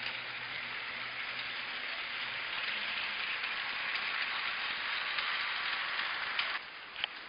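Battery-powered G-scale toy train running on its track outdoors: a steady rattling hiss of wheels and gearing that grows a little louder. It drops off abruptly about six and a half seconds in, followed by a sharp click.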